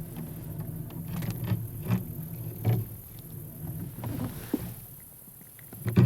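Knocks and bumps against a plastic fishing kayak's hull over a low rumble, as a fish is brought aboard. Several sharp knocks come in the first three seconds, and the loudest thump falls near the end.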